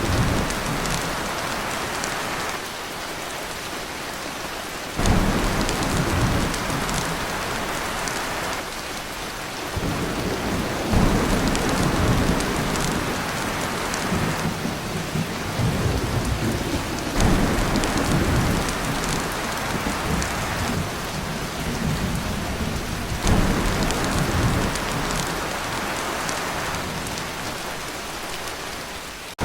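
Heavy rain falling on a tin roof, with thunder rumbling several times under it; one roll starts suddenly about five seconds in and another about ten seconds in.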